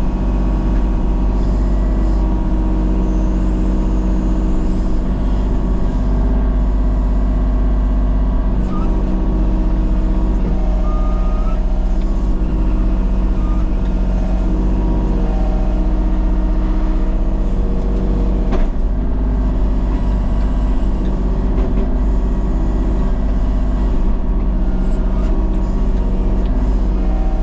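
Engine of a land-clearing machine running steadily while working, its tone shifting slightly as the load changes, with an occasional knock.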